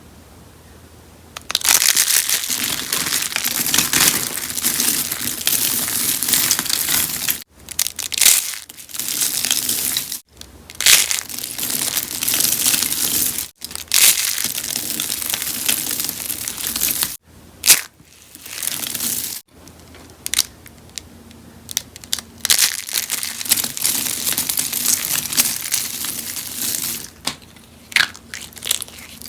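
Rose-shaped soaps being crushed and crunched, a dense crackling crunch that goes on with a few brief pauses, after a quiet first second or two.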